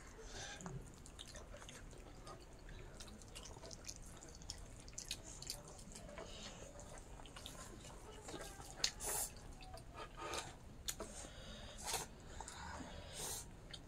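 Wet, close-up eating sounds of pork and rice being chewed: irregular lip smacks and mouth clicks, a few louder ones in the second half.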